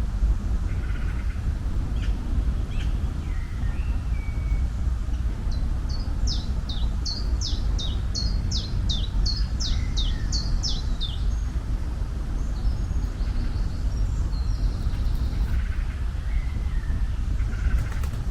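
Birdsong over a steady low rumble of outdoor ambience. One bird sings a run of about a dozen sharp, downward-sweeping notes, two to three a second, starting about six seconds in and lasting around five seconds. Scattered softer chirps come from other birds.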